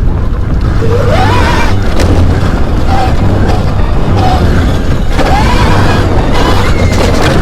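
Electric dirt bike being ridden: heavy wind rumble on the microphone, with a whine that rises in pitch twice as the bike speeds up.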